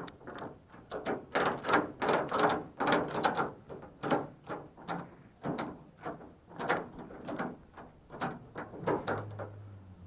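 Irregular, rapid clicking and clanking of metal parts being handled and worked on.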